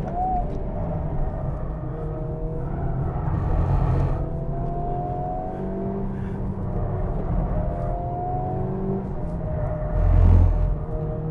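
2023 Honda Civic Type R's 2.0-litre turbocharged four-cylinder engine pulling hard at circuit speed, heard inside the cabin, its note climbing several times over the seconds. About ten seconds in comes a short, loud low rumble, the loudest moment.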